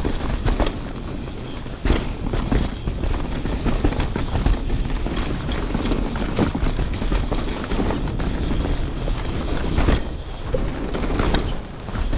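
Canyon Spectral 29 CFR mountain bike rolling fast down a rough dirt trail: steady tyre and rattle noise, with sharp knocks from hitting bumps about two seconds in and again near ten seconds.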